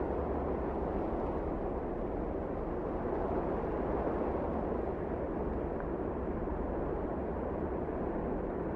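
Strong blizzard wind blowing steadily: a dense, even rush with a low rumble underneath, without gusts or breaks.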